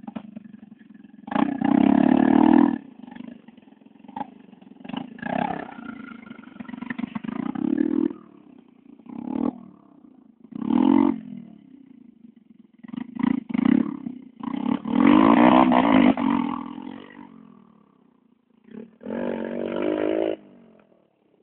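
Motocross bike engine revving in repeated throttle bursts, its pitch rising and falling, with quieter low-running stretches in between; the loudest bursts come about two seconds in and about two-thirds of the way through, and the engine sound fades out just before the end.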